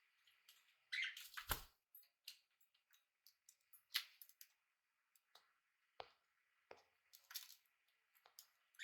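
Pet budgies and cockatiels moving about their cage: brief chirps, sharp beak and claw clicks, and short rustles, spread out with quiet gaps between.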